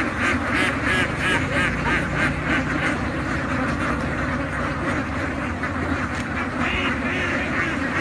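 A large flock of domestic ducks quacking continuously, many overlapping calls in quick succession, densest in the first few seconds, over a low steady hum.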